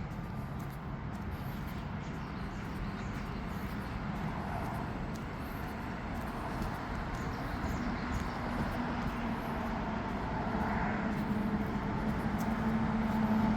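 Steady rumble of outdoor vehicle traffic. It grows slowly louder, and a low steady hum comes in after about eight seconds and strengthens near the end.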